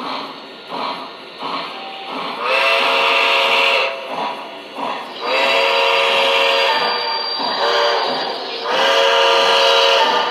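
Lionel model steam locomotive's sound system blowing its steam whistle in the grade-crossing pattern (long, long, short, long) over steady chuffing.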